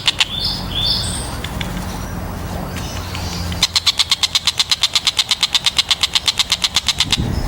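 Tengkek buto kingfisher calling: a few short high calls near the start, then a fast rattling trill of sharp repeated notes, about ten a second, from a little past halfway until near the end. A steady low rumble runs underneath.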